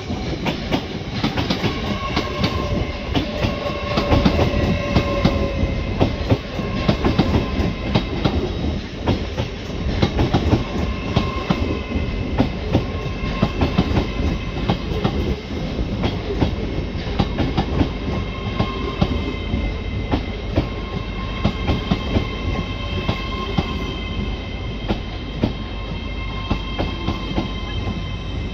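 An LNER Class 801 Azuma electric train rolls slowly past close by, its wheels clicking and knocking over the rail joints throughout. A thin, steady high whine runs over the clicking and grows stronger in the second half.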